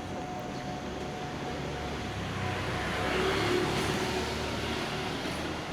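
A car passing close by on a street: engine and tyre noise rise to a peak about three and a half seconds in and then fade, over steady street noise.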